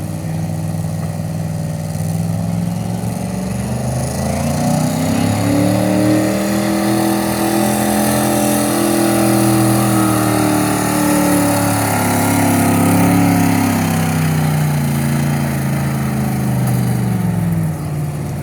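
Truck engine at full throttle pulling a weight sled. The revs climb a few seconds in, hold high, then sag gradually under load. The engine drops off abruptly near the end as the run finishes.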